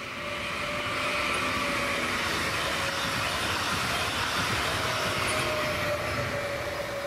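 BRB Stadler FLIRT (class 1430) electric multiple unit passing close by: the rush of wheels on rail swells about a second in, holds, and fades near the end, over a steady whine.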